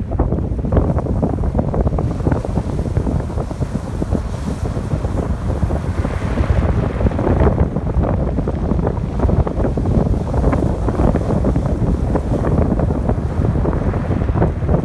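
Strong wind buffeting the microphone with a heavy low rumble, over ocean surf on a beach. The surf hiss swells about six seconds in, as a wave washes up.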